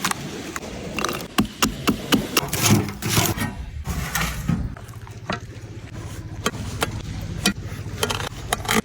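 Handling noises: irregular clicks, taps and scrapes, with a low steady hum joining about five seconds in.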